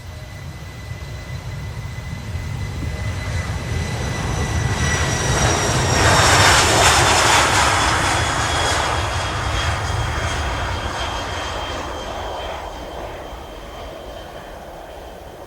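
Kawasaki P-1 maritime patrol jet's turbofan engines passing by. The sound grows to its loudest about seven seconds in and then fades. Over a low rumble, a high whine drops in pitch as the aircraft goes past.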